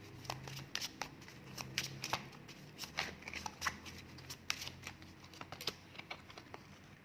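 Divination cards being shuffled and handled: irregular light flicks and clicks that die away about six seconds in.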